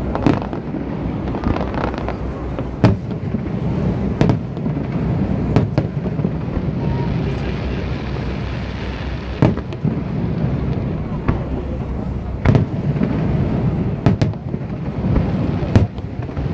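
Aerial fireworks shells bursting: sharp bangs at irregular intervals, one to a few seconds apart, over a steady low rumble. The loudest bangs come about three seconds in and near the end.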